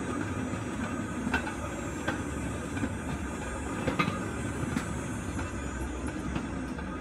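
Steel wheels of a pedal-powered four-wheeled rail bike rolling along railroad track: a steady rumble with sharp clicks every second or so as the wheels cross the rail joints.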